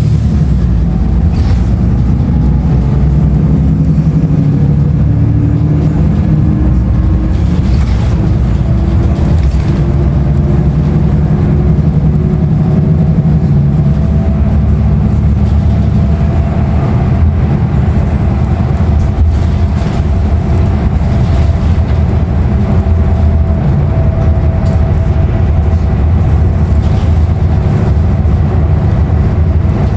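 Inside a Nova Bus LFS transit bus under way: its Cummins ISL9 inline-six diesel and ZF automatic transmission run steadily under road noise, with the engine tone rising slowly at first and then holding. A few brief knocks or rattles come through early on.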